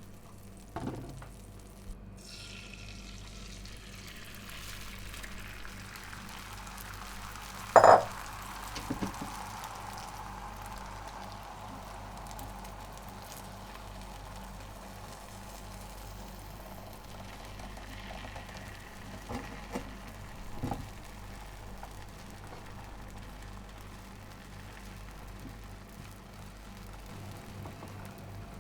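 Food sizzling steadily in a hot frying pan. A loud metallic clank of a utensil against the pan comes about eight seconds in, with a few lighter knocks elsewhere.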